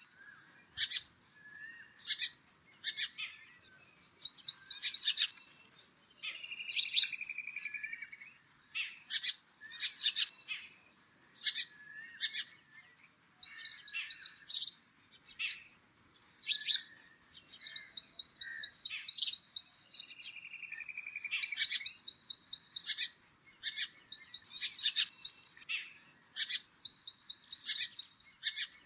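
Songbirds calling: short, high, rapid trills repeating every second or so, with a lower falling trill twice.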